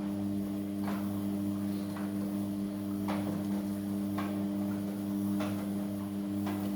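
Amica washing machine in the main wash of a 40 °C cotton cycle: a steady motor hum while the drum turns, with a short swish or knock about once a second as the wet laundry tumbles.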